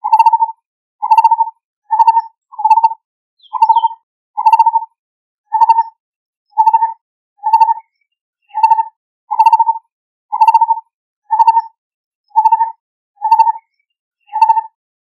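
Lineated barbet calling: one low note, each a short rapid trill, repeated about once a second with no background noise.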